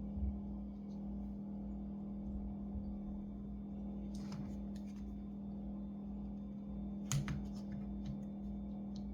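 Light clicks and taps of hand work on a laptop during a battery replacement, the loudest about two thirds of the way through, over a steady low hum.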